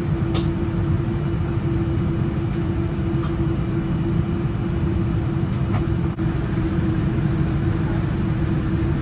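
Cabin noise inside a Boeing 787-9 on the ground after landing, most likely taxiing to the gate: a steady low rumble with a constant hum over it and a few faint clicks.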